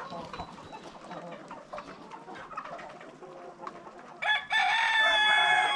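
Chickens clucking, with short scattered calls, then about four seconds in a rooster crows: one loud, long drawn-out crow.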